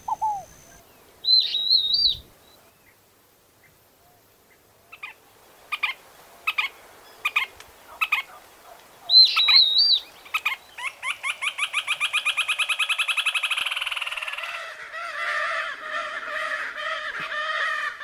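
Wild Caatinga birds singing, the stripe-backed antbird and red-shouldered spinetail among them. A short high warbled phrase comes twice, with a run of sharp separate notes between, then a long fast trill lasting about four seconds, followed by busier overlapping calls near the end.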